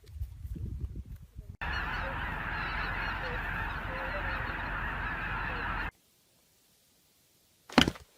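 A flock of geese honking all at once in a dense, noisy chorus for about four seconds, which cuts off suddenly.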